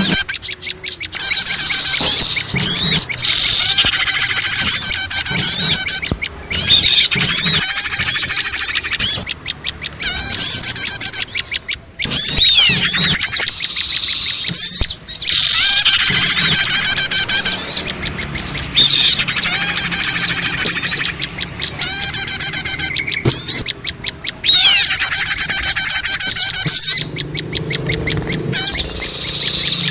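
Bird-lure recording of many small songbirds calling at once: a busy jumble of rapid high chirps, trills and squeaky calls. It comes in loud stretches of several seconds with brief breaks between them.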